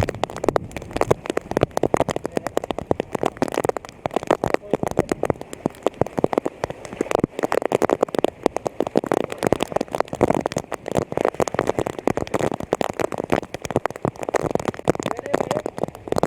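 Rain falling, a dense crackling patter of drops hitting water and wet surfaces.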